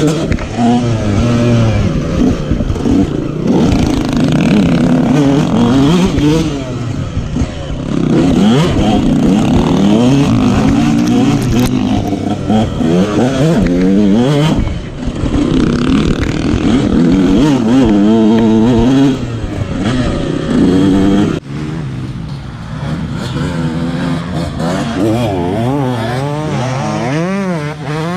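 Motocross dirt bike engine revving, its pitch climbing and falling again and again with the throttle and gear changes. The sound drops suddenly about three-quarters of the way through, then the revving carries on.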